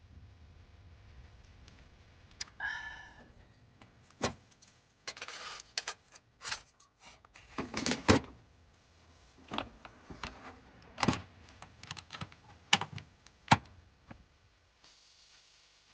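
A run of irregular sharp clicks and knocks, a dozen or so, with a brief hiss about five seconds in.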